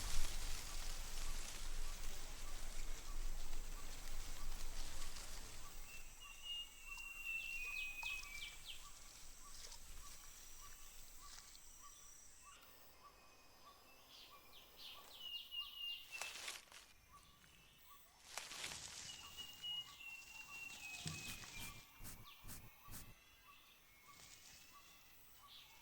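Tropical rainforest ambience: an insect keeps up a steady pulsing note while birds give repeated short call series. A noisy rustle fades out about six seconds in, and a few sharp crackles come later.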